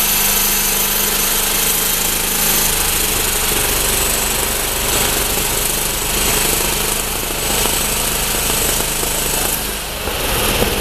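Heavily modified tractor-pulling engine running loud and steady, with a thin, high, constant whistle above the engine noise.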